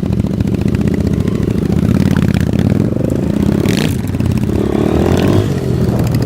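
Motorcycle engine running under way, its revs rising and falling with the throttle, with a short hiss just before four seconds in.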